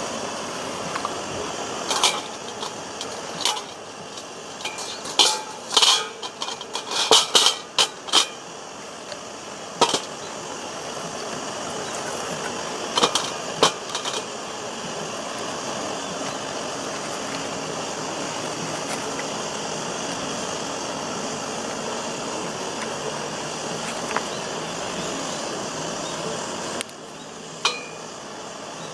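A series of sharp clinks and knocks, bunched together a few seconds in and one more near the end, over a steady background hiss.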